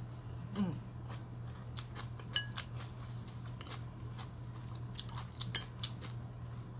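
Close-up eating sounds: chewing ramen noodles with many small wet mouth clicks, and chopsticks clinking against the bowl, once with a brief ring about two and a half seconds in. A short falling "mm" hum about half a second in, over a steady low hum.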